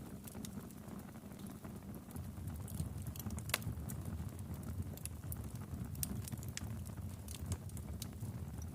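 Wood fire crackling in a fireplace: a steady low rumble of the flames with irregular sharp pops and snaps, one louder pop about three and a half seconds in.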